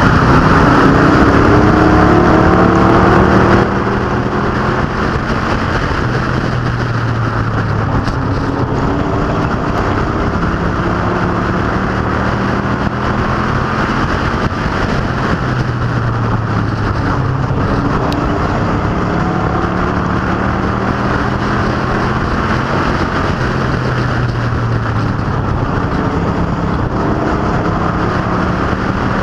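Street stock cars and pro trucks racing around an oval track: loud engines whose pitch rises and falls in repeated sweeps as they accelerate down the straights and lift for the turns. The overall sound drops in loudness a few seconds in.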